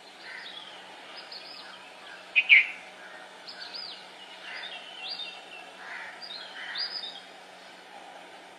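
Birds chirping: short, high, repeated calls, some curving down in pitch, over a steady background hiss, with one louder call about two and a half seconds in.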